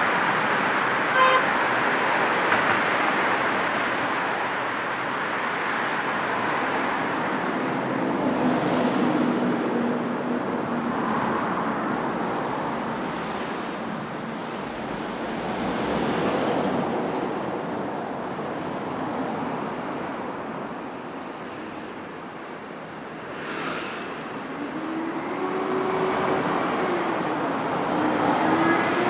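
Busy city street traffic: a steady wash of tyre and engine noise with cars passing one after another. There is a short car horn toot about a second in, and a vehicle engine revs up and down near the end.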